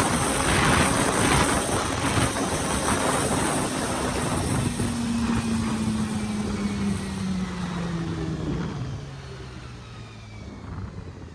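Riding on a Honda CBR400RR: its inline-four engine under heavy wind rush. Around the middle the engine note falls steadily and the wind hiss fades as the bike slows, leaving the sound quieter near the end.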